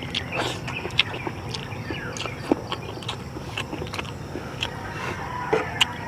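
A person eating ginataang langka: chewing with small mouth clicks and smacks, scattered irregularly.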